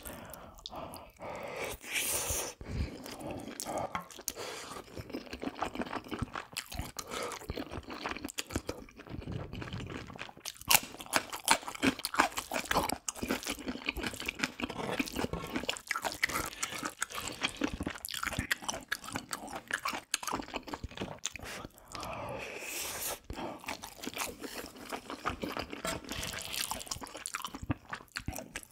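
Close-miked chewing of a mouthful of spicy pan-fried rice, with wet mouth smacks and bites, and a wooden spoon scraping and scooping rice on the grill pan.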